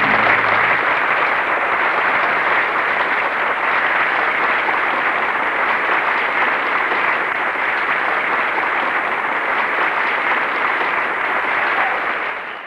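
Studio audience applauding steadily at the end of a song, while the band's last held note dies away in the first second. The applause fades out just before the end.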